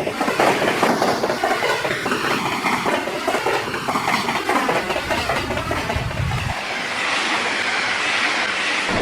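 Train running along the track, its wheels clicking rapidly over rail joints, with a hiss growing louder near the end.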